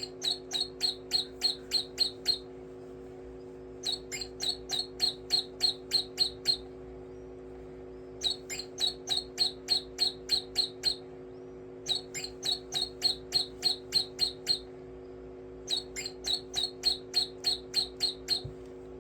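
Bird chirping in five bursts of about ten quick, evenly spaced chirps each, roughly four a second, with short pauses between bursts, over a steady low hum.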